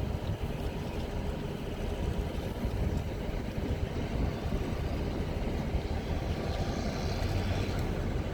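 Straight-piped Cummins C8.3 inline-six turbo diesel running steadily in a school bus, a continuous deep exhaust rumble with no clear rev change.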